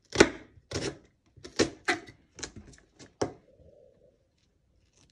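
Knife slicing an onion on a chopping board: about eight sharp strokes, roughly two a second, that stop a little past three seconds in.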